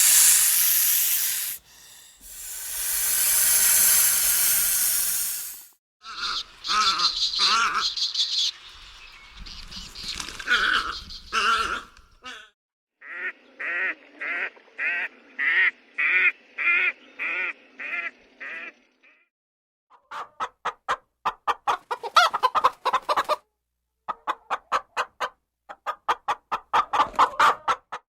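Two long hisses, then a run of poultry calls: clucking and quacking in quick repeated notes, about three a second in places, from several different birds in turn.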